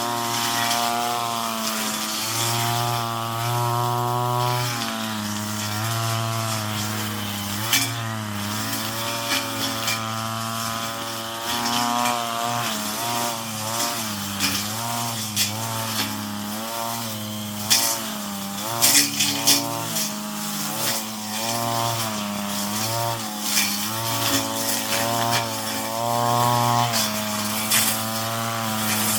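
Brush cutter engine running under load, its pitch repeatedly dipping and rising as the cutting head bites into weeds, with scattered sharp cracks of the head striking stalks.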